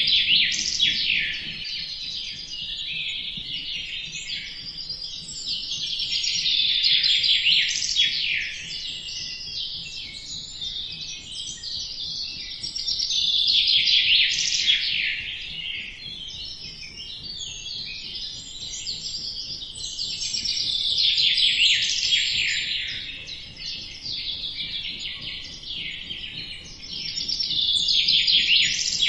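Songbirds chirping in a dense chorus of rapid, high chirps. The chorus swells louder about every seven seconds.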